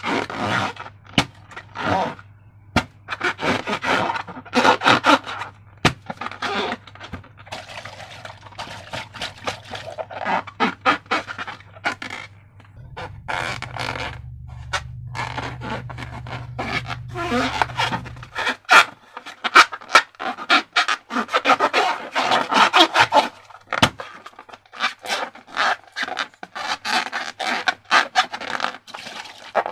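Slime being squeezed, pressed and mixed by hand, giving irregular sticky squelches and crackles in quick succession.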